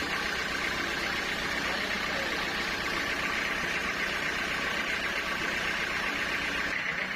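Sawmill machinery running with a steady mechanical drone; the high hiss drops away near the end.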